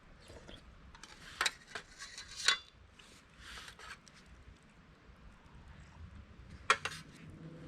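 A few sharp clinks and knocks of objects being handled, the loudest about a second and a half in, at two and a half seconds, and near the end.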